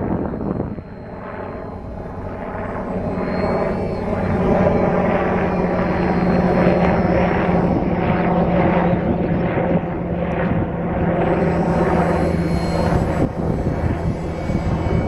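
Radio-controlled Glasair Sportsman model airplane flying, its motor and propeller droning steadily; the drone grows louder over the first few seconds, then holds.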